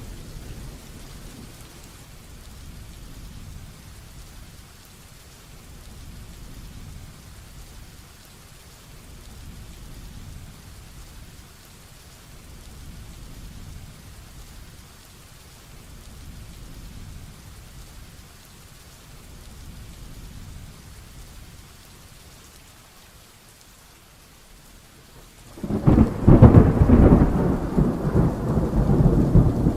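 Steady heavy rain with low thunder rumbling, swelling and fading every few seconds. Near the end a sudden loud thunderclap breaks in and rolls on.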